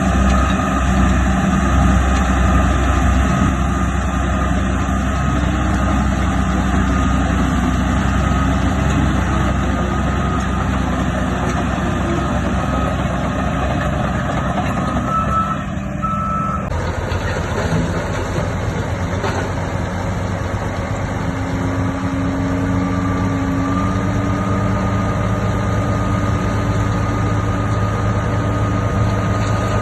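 Heavy diesel earthmoving machinery (bulldozer and dump truck) running under load, with a reversing alarm beeping over the engine noise. The sound changes abruptly just past halfway.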